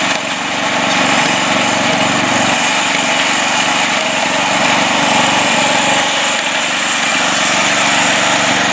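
Mastercraft lawn tractor's engine running steadily under load while the tractor works to pull itself out of a mud hole.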